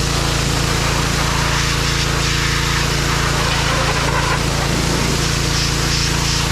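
John Deere 1025R compact tractor's three-cylinder diesel running steadily at constant speed.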